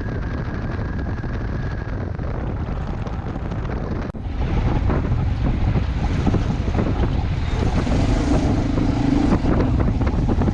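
Wind buffeting the microphone over a low vehicle rumble, as when filming on the move. It breaks off sharply about four seconds in and comes back a little louder.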